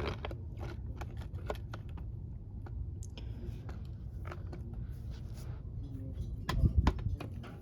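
Scattered small clicks and taps of handling noise over a steady low rumble, with a few louder knocks about six and a half seconds in.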